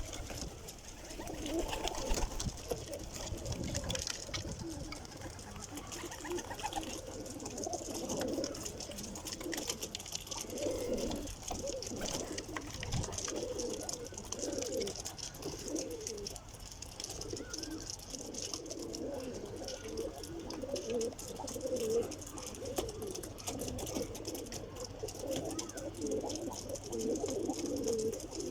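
A flock of domestic pigeons cooing, many low, wavering coos overlapping without a break.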